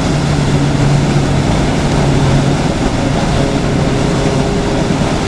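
Steady, unbroken rush of river water flowing over rocks, with a faint low hum during the first half that fades out about two and a half seconds in.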